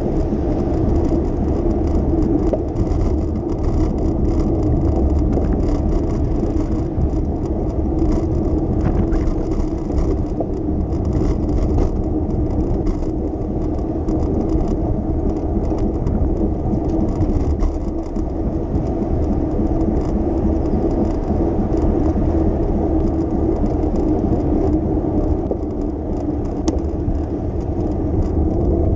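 Steady rumbling road noise of a bicycle ride through city streets, with traffic around.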